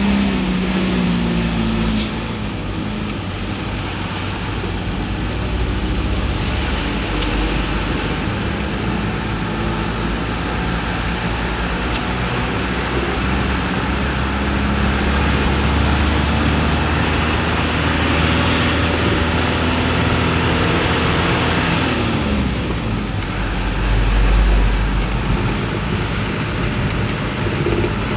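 Motor vehicle engine running with steady road noise and a low rumble; the engine note drops about two-thirds of the way through.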